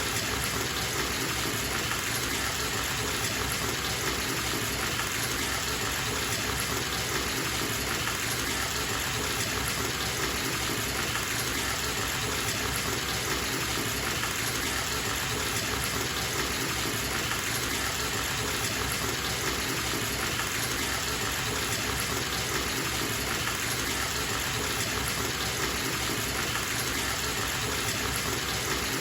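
Bathtub tap running full, water gushing steadily into the tub as it fills.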